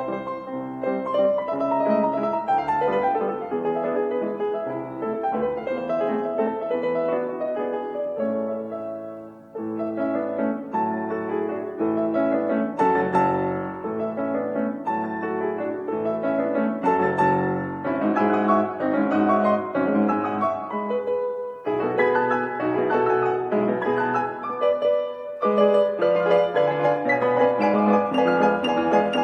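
Piano music played in phrases, with a brief pause about nine and a half seconds in and two short breaks later on.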